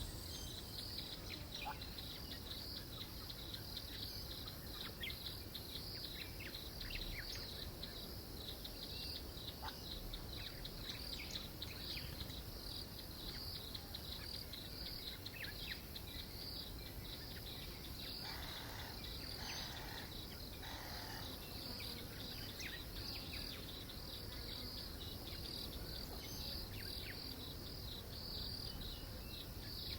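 Insect chorus: a steady, high-pitched, fast-pulsing trill, with scattered faint chirps and three brief soft sounds a little past halfway through.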